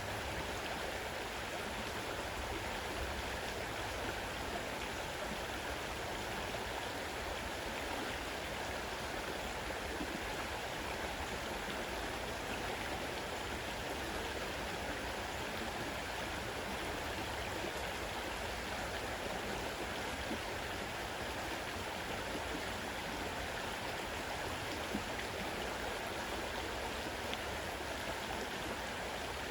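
Fast-running river water rushing steadily, an even, unbroken wash of sound.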